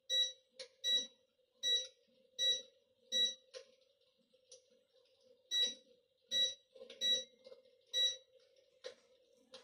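Electrolux Infinity 1600 electric fireplace's control beeping at each button press as the flame intensity is stepped through: about nine short high beeps, five in quick succession, a pause of about two seconds, then four more. A faint steady hum runs underneath.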